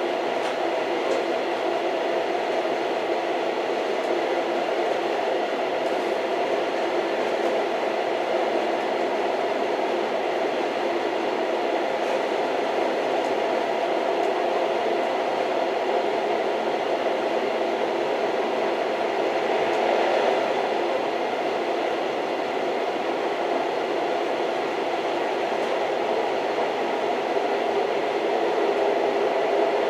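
Old train running along the track: a steady, even noise of wheels and carriage with a few faint clicks and a slight swell about twenty seconds in.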